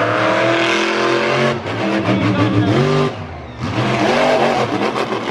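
Monster truck engine revving hard, its pitch rising and falling with the throttle; it drops off briefly a little after three seconds, then climbs again.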